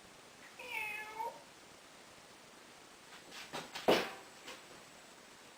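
African grey parrot mimicking a cat's meow: one short meow about a second in. A few sharp clicks or knocks follow about three to four seconds in, the loudest of them near four seconds.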